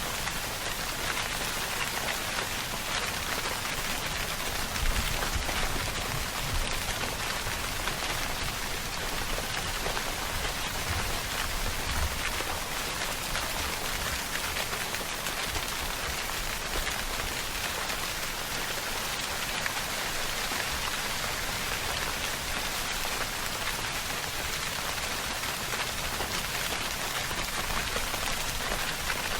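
Steady rainfall, an even patter of drops on a surface with no letup, with a few faint low thumps among the drops.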